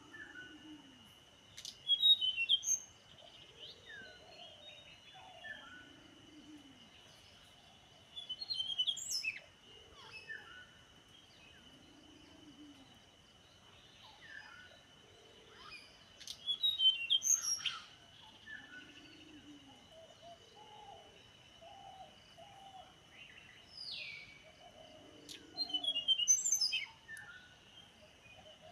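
Wild birds calling: loud clusters of quick, high chirps come every several seconds, with fainter chirps in between. Under them a soft low call repeats about every three seconds, and a steady high-pitched tone runs throughout.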